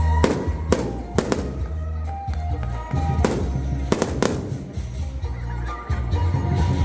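Aerial firework shells bursting: about six sharp bangs with echoing tails, in a cluster in the first second and a half and another around three to four seconds in. Music with a heavy bass plays underneath throughout.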